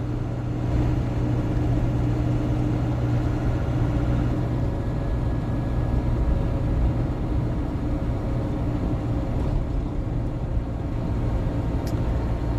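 Steady drone of a GAZon Next truck under way, heard from inside the cab: engine hum with road and wind noise.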